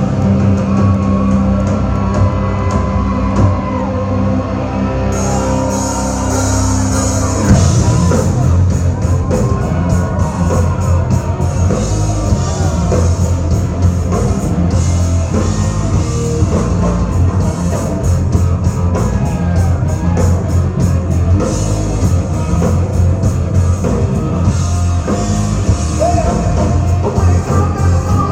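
Rock music with singing, guitar and drums. Held chords open it, then the drums come in with a driving beat about a quarter of the way through.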